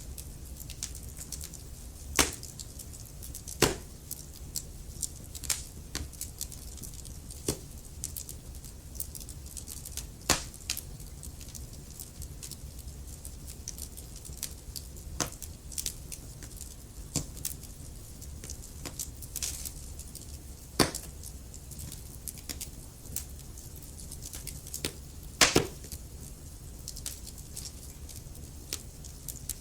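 Wood fire burning in a fireplace: irregular sharp crackles and pops over a steady low rumble of the flames, with a few louder pops, the biggest a double pop near the end.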